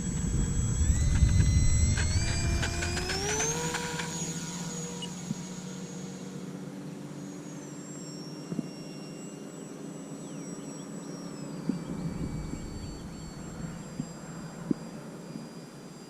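Small RC model plane's electric motor and propeller whining, climbing in pitch over the first few seconds as the throttle comes up. It then holds steady and steps down in pitch a couple of times.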